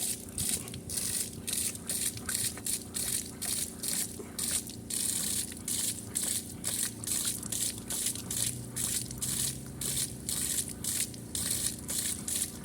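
Compressed-air rock-drilling machine running, with rhythmic bursts of air hiss about two and a half times a second over a steady low mechanical hum.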